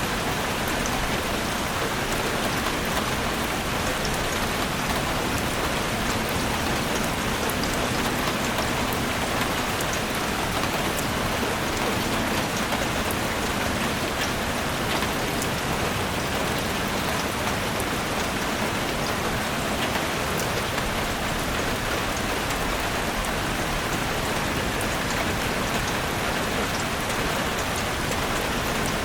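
Steady rain falling in a forest, an even hiss with scattered drops pattering on leaves.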